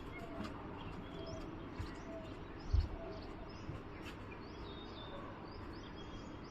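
Small birds chirping faintly, short high notes scattered throughout over a steady outdoor hiss, with a brief low thud nearly three seconds in.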